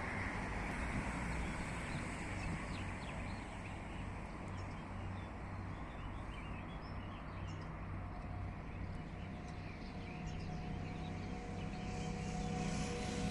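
Scania S-series truck's diesel engine running with a steady low rumble, with birds chirping. A steady whine joins about eight seconds in.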